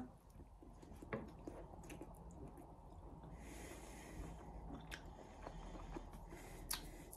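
A man chewing a mouthful of beetroot with his mouth closed, faint wet clicks of the chewing, with a short breath about three and a half seconds in.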